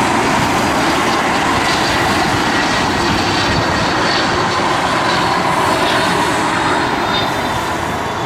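Jet engines of a Bombardier Challenger business jet passing, a steady loud rush with a faint high whine, easing off near the end.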